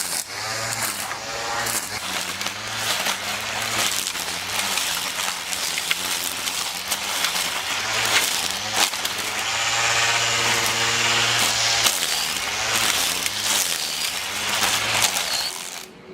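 Black & Decker string trimmer running and cutting brush, its motor pitch rising and falling as it meets the growth, with sharp ticks of debris striking.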